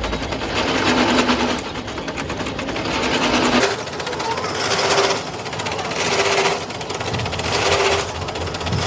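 Rapid mechanical hammering on metal from a power tool, coming in repeated bursts about a second long with short pauses between them.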